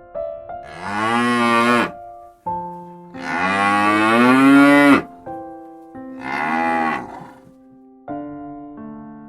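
A cow mooing three times, the middle call the longest and loudest, over soft piano music.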